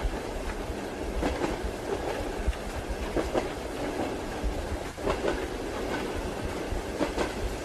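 Train wheels clicking over rail joints in a steady rhythm, a double click about every two seconds, over the continuous low rumble of the moving carriage and a soft hiss of rain.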